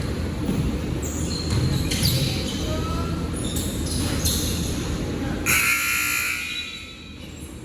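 Basketball game on an indoor court: ball bouncing and play going on, with short high squeaks. About five and a half seconds in, a loud tone sounds for about a second, and then the court noise drops.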